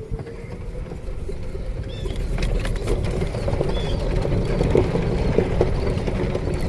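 A vehicle's engine running as it is driven, with knocks and rattles over rough ground, getting gradually louder.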